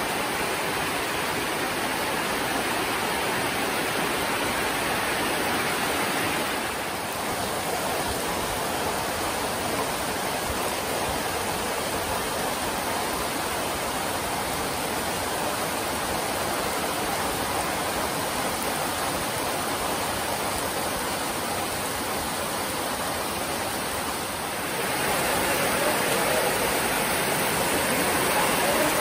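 Heavy tropical rain falling steadily, a dense, even hiss. It dips briefly about seven seconds in and again near twenty-five seconds, and is louder after the second dip.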